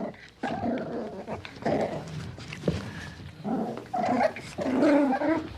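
Dog growling and barking in a run of about six short calls.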